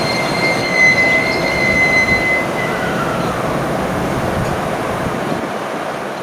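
Train running at a station platform: a dense rumble of wheels on rail, with a high steady squeal from the wheels over the first two to three seconds. The rumble then slowly fades.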